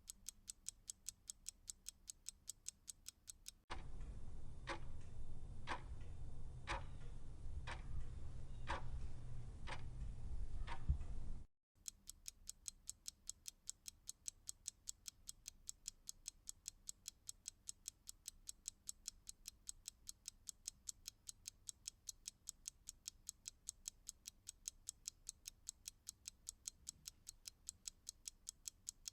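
Clock ticking quickly and evenly, about three ticks a second. From about four seconds in, a louder passage with slower ticks about once a second over a low rumble takes over. It cuts off abruptly just before the fast ticking resumes.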